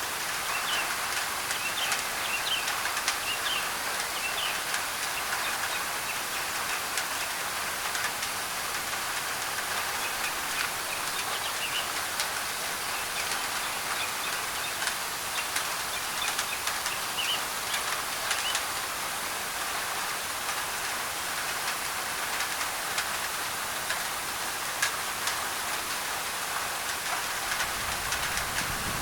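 Steady rain drumming on a thin tin roof, with sharp ticks of single drops, and birds chirping faintly now and then. A low rumble comes in near the end.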